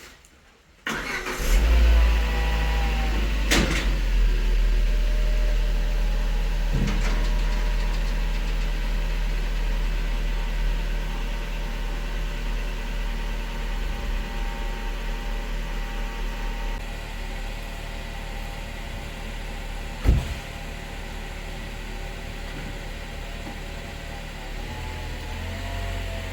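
A motor starts about a second in and runs steadily with a low hum, with one sharp knock about twenty seconds in.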